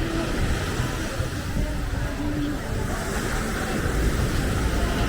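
Steady beachfront ambience: a low rumble of traffic and surf, with faint distant voices.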